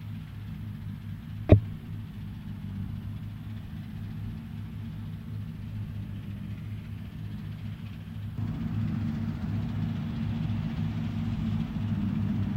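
New Holland CX 6.80 combine harvester running with a steady low engine hum. A single sharp knock comes about one and a half seconds in, and the machine gets suddenly louder a little past eight seconds.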